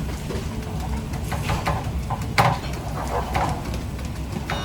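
Busy kitchen working sounds: scattered clinks and knocks of cookware and utensils over a steady low hum, with one sharper knock about halfway through.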